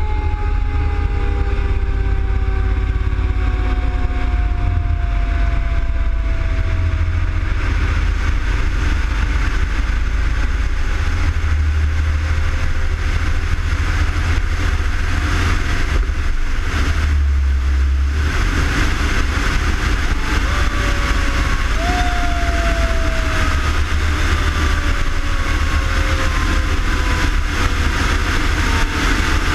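Fire engine on an emergency run: a steady, heavy engine and road rumble, with a siren slowly winding down. The siren briefly rises again about two-thirds of the way through, winds down again, and starts climbing once more at the very end.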